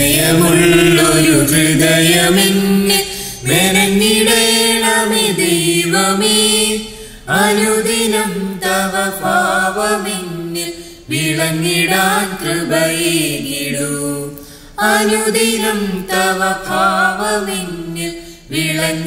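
Voices singing a slow Malayalam Christian hymn of confession, in about five phrases a few seconds long with brief breaths between them.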